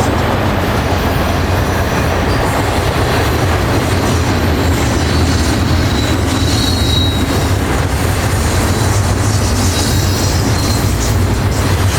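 Railway cars rolling steadily past on the rails with a low, continuous rumble, and a faint high wheel squeal about halfway through.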